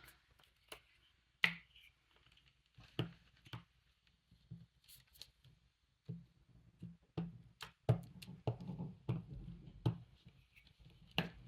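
Paper and card being handled and set down on a tabletop: scattered light taps, clicks and rustles, coming more often in the second half.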